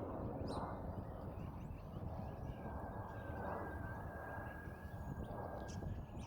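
Wind rumbling on the microphone outdoors in a snowstorm, with a faint steady high tone through the middle and a few short high chirps.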